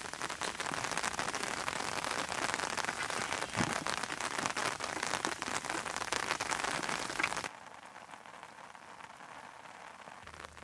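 Steady rain pattering on the ground, a dense crackling hiss that drops suddenly to a quieter patter about seven and a half seconds in.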